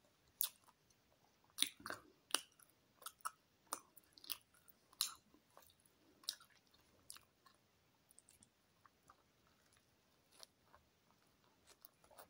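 A person chewing a mouthful of chicken and lettuce baguette close to the microphone, with sharp, irregular mouth clicks and crunches. They come thick in the first half and grow sparser after about six seconds.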